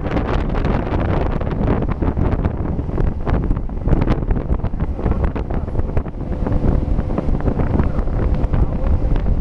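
Wind buffeting the microphone on a moving motorboat, over the steady noise of the boat running through the water.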